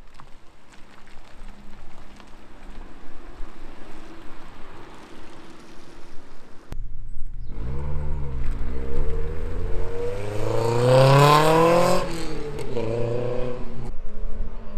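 A car engine accelerating hard away. After a quieter stretch of low engine noise, the pitch climbs for about three seconds to a loud peak, drops off sharply, then revs up briefly once more before cutting off.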